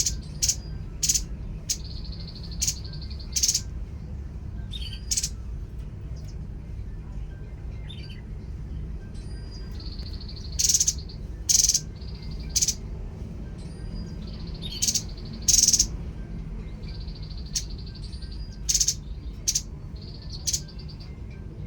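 Tepus babbler singing: short, sharp calls repeated at irregular intervals, mixed with buzzy, held trilling notes, over a low, steady hum.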